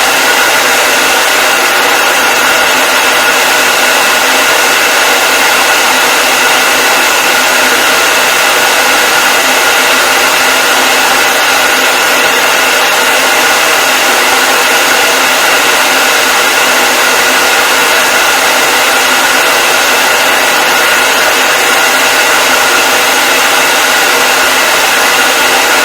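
Hair dryer running continuously at a steady speed: a loud, even rush of air with a steady motor whine layered over it.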